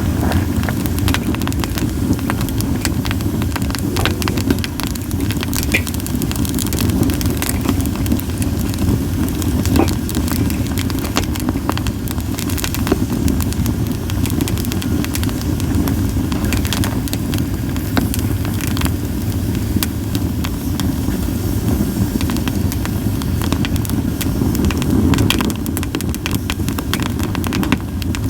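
Campfire of split sawtooth oak (kunugi) logs crackling, with many sharp pops scattered irregularly over a steady low rumble.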